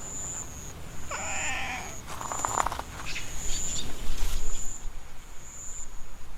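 A cat meowing: a short pitched meow about a second in, then a louder cry a second later. Behind it a high, thin insect chirp repeats about once a second.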